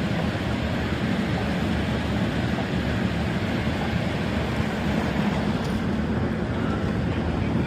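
Mitsubishi floor-standing air conditioner running under load, a steady hum and whoosh of compressor and fan with no change.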